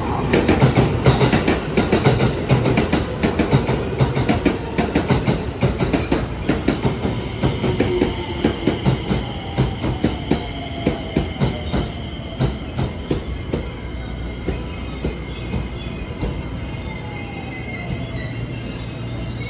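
JR West electric multiple-unit train pulling into a platform and braking: the wheels clack over rail joints in a rhythm that slows, the motor whine falls in pitch, and a high squeal of the brakes runs through the later part.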